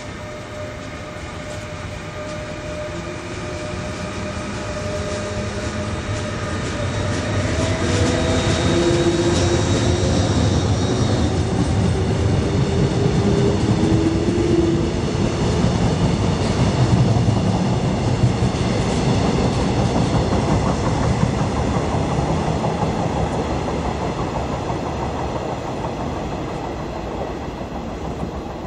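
Electric train passing along the track, its rumble and wheel noise growing louder over the first third and then slowly fading. Several motor tones shift in pitch as it goes by.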